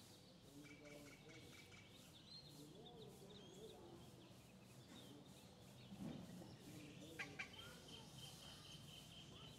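Faint outdoor ambience with scattered bird chirps and calls. A thin steady high tone sets in late, and there are two light clicks about seven seconds in.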